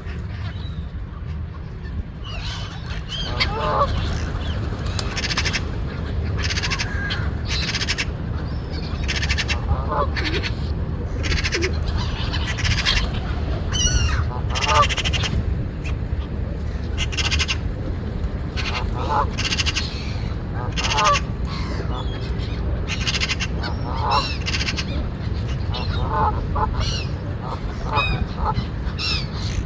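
Birds calling over and over in short, rising and falling calls, with frequent harsher bursts in between, over a steady low rumble.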